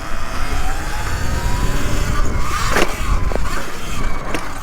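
Segway X160 electric dirt bike being ridden: heavy wind rumble on the microphone with a faint rising motor whine, and a couple of sharp knocks about three seconds in.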